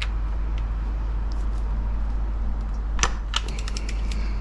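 Metal hand tool clicking against the engine's variable valve timing solenoid as it is fitted on and gripped, with a few faint clicks, then two sharp clicks about three seconds in followed by a quick run of small ticks.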